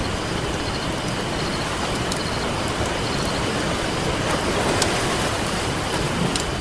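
Ocean surf washing in a steady hiss, with a few sharp crackles from a campfire; a wave swells up about four to five seconds in.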